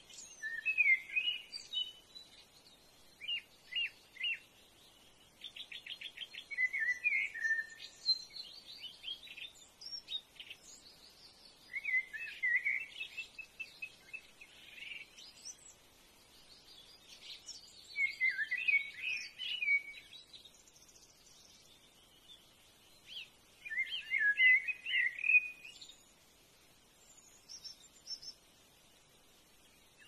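Wild birds singing and calling in bursts of high, quick chirps and trills every few seconds, with short pauses between them.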